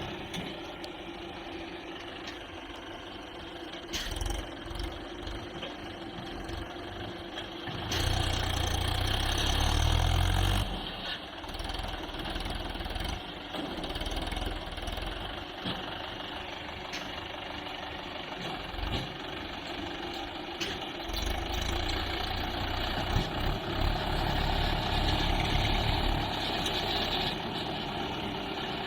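Tractor engine running steadily, growing louder and heavier twice: for a couple of seconds about eight seconds in, and for several seconds past the middle.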